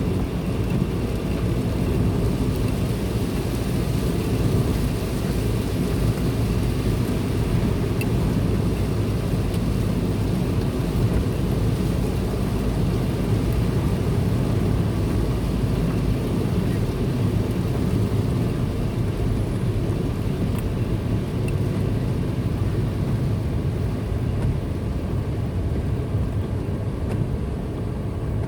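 Car driving steadily along a highway: continuous engine and tyre road noise, with the higher hiss thinning near the end.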